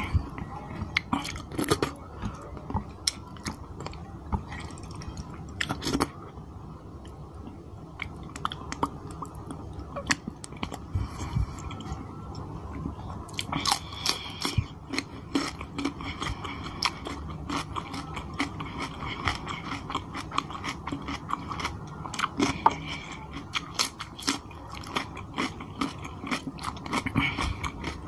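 Close-miked eating sounds: wet chewing of curry and rice scooped up by hand, then crisp crunching bites of raw cucumber slices from about halfway through.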